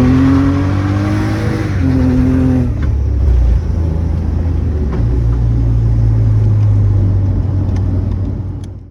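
Car engine revving up hard with its pitch rising, then a shift about two seconds in. After it lifts off, a lower steady drone runs with a few sharp clicks, and the sound cuts off abruptly at the end.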